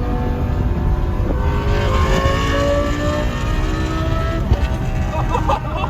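Lamborghini Gallardo Superleggera's V10 with an aftermarket exhaust pulling under acceleration, its note climbing steadily over a few seconds. A sharp crack comes about four and a half seconds in, with a few more short cracks near the end.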